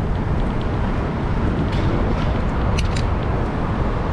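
Steady low rumble of city street traffic heard from a moving bicycle, with two short sharp clicks about three seconds in.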